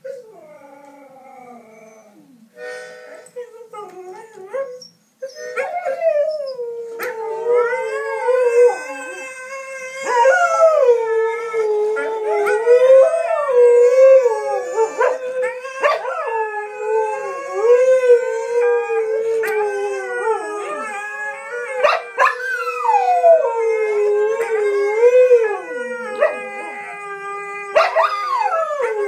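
Husky howling along with a playing video: after a quieter first five seconds, long drawn-out howls that slide up and down in pitch and run almost without a break to the end.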